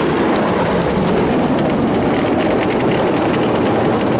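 Ryko Softgloss Maxx car wash's rotating cloth brushes scrubbing over the car amid water spray, a loud steady wash heard from inside the car.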